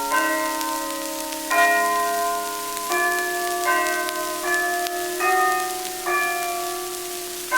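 Bells playing a slow melody on an early phonograph record, about eight struck notes that each ring and fade before the next, over steady record surface hiss.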